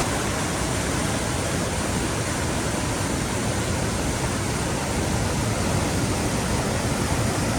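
Steady, even rushing of a waterfall, with no change in level.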